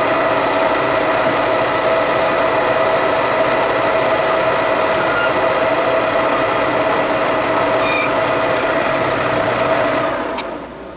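Metal lathe running at about 880 rpm, taking a turning cut: a loud, steady mechanical hum with a strong steady tone, a few light clicks about eight seconds in, and the sound dying down near the end.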